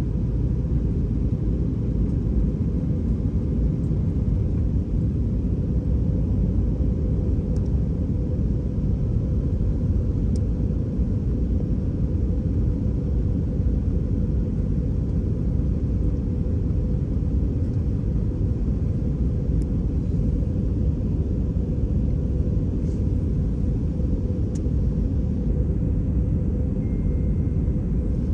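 Airbus A320 cabin noise in flight: a steady low drone of engines and airflow with a faint steady hum, and a few faint ticks now and then.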